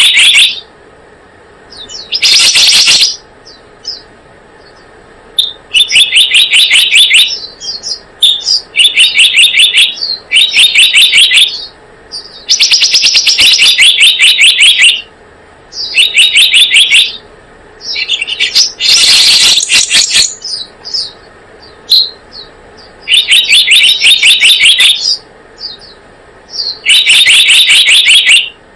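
Recorded lure call of the selendang biru bird: loud bursts of rapid, pulsed, high chirping trills about a second long, repeated every second or two over a steady hiss. A couple of the bursts are harsher and rougher.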